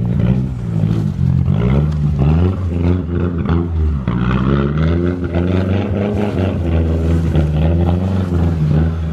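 Front-wheel-drive car's engine revving up and down several times as the driver tries to make it drift.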